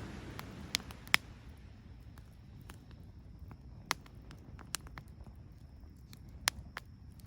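Firewood burning in a Picogrill 398 folding fire pit, crackling with a handful of scattered sharp pops over a low rumble that eases after the first second or two.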